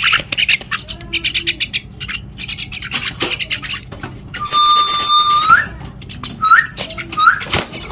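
Pet common myna (salik) calling: rapid harsh chattering, then a long steady whistle that flicks upward at its end, followed by a few short rising whistles.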